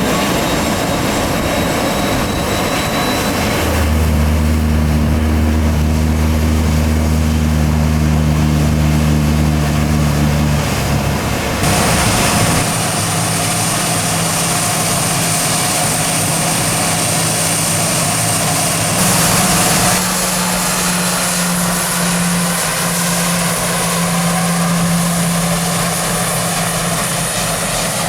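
Gulfstream G550 business jet's Rolls-Royce BR710 turbofan engines running at low power on the ground, a steady high whine over a low rumble. A deep steady hum joins in about four seconds in and drops away near ten seconds, and the sound shifts abruptly again around twelve and twenty seconds in.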